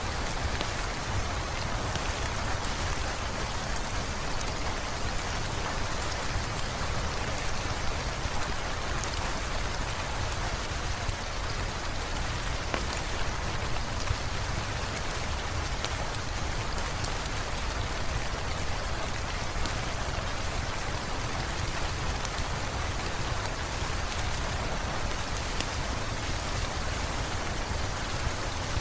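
Steady rain falling on hard surfaces, an even hiss scattered with sharp little ticks of individual drops.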